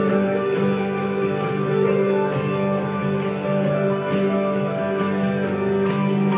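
Acoustic guitar strummed in a steady rhythm, about two strums a second, playing an instrumental passage with no singing.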